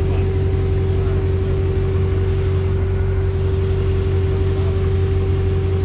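Steady low mechanical drone with a constant humming tone above it, unchanging throughout.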